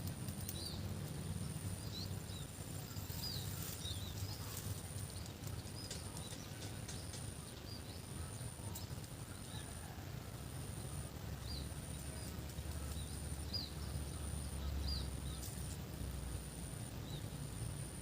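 Rural outdoor ambience: small birds give short, quick chirps, scattered through the whole stretch. A high, thin buzz pulses on and off about once a second, over a low, steady rumble.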